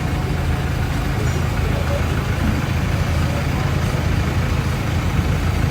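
A vehicle engine idling steadily, with a constant low hum, and faint voices in the background.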